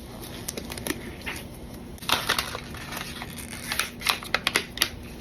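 Plastic packaging of a JB Tank Weld epoxy putty stick being opened and handled: irregular crackling and clicking, busier and louder in the second half.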